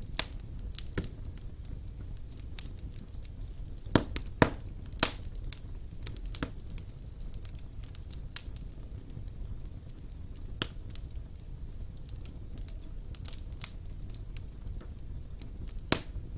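Wood fire burning in a fireplace: a low steady rumble of flames with irregular sharp crackles and pops from the burning logs, a few louder snaps about four, four and a half and five seconds in and again near the end.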